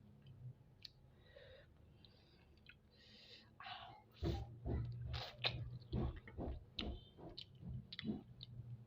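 Close-miked chewing of spicy chicken feet. Soft mouth sounds come first, then from about halfway through a run of loud, sharp chewing clicks at about three a second.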